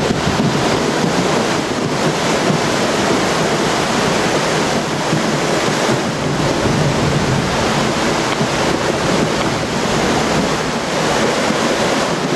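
Flooded brook rushing in a steady loud wash of water.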